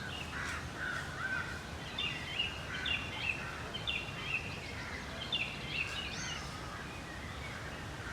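Birds calling, many short quick chirps and calls overlapping, thickest in the middle, over a steady low background noise.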